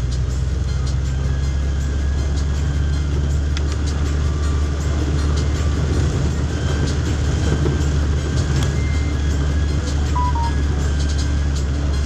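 Steady low rumble of a vehicle in motion, with scattered light ticks over it.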